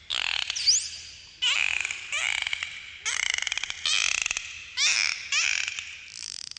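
Dolphins calling: a run of about eight short bursts of rapid clicking, with rising and falling whistles running through them.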